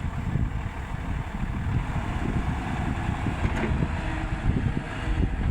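Volvo excavator's diesel engine running steadily, with wind buffeting the microphone.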